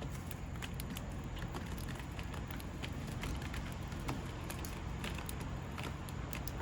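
Scattered small sharp taps and clicks, sparrows pecking and hopping at a feeder, over a steady low rumble.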